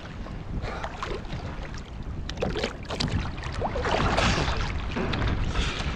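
Water splashing and sloshing irregularly close to the microphone as a person swims in the sea, with low wind rumble on the mic.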